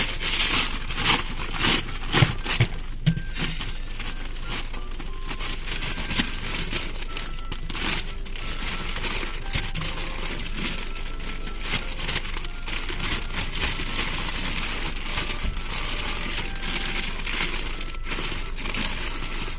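Wrapping paper crinkling and rustling as presents are wrapped by hand, with several sharper crackles in the first few seconds.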